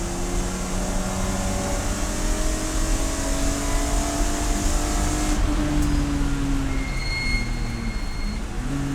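Race car engine under load, its note rising steadily for about five seconds. The throttle then closes suddenly and the pitch falls in steps, as on braking and downshifting, before picking up again near the end. A thin high-pitched squeal is heard briefly in the lower-revving part.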